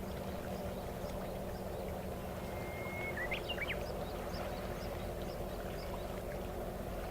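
Steady low drone of a vessel's engine running, with a bird's short high chirps scattered through it. About three seconds in there is one held whistle that breaks into quick rising notes.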